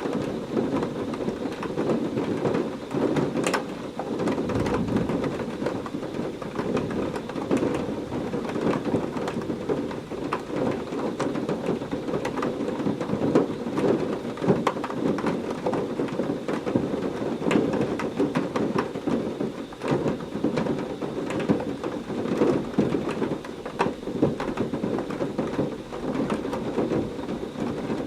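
Heavy rain falling steadily, many sharp drop ticks over a dense low rumble of thunderstorm.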